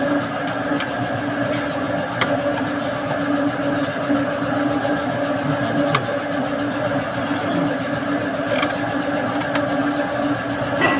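A machine running steadily at constant speed, with a few faint light clicks.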